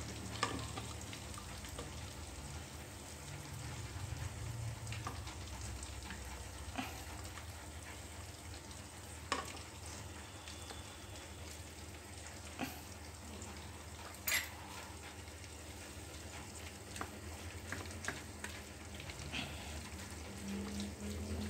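Salted fish frying in oil in the inner pot of an electric rice cooker: a faint steady sizzle, with a few sharp clicks of a spatula against the pot. Near the end, a wooden pestle works chili sambal in a wooden mortar.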